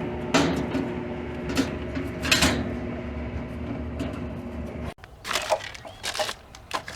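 Sharp metallic clicks and clanks, a few seconds apart, over a steady hum. The sound cuts off abruptly about five seconds in and is followed by lighter, scattered clicks.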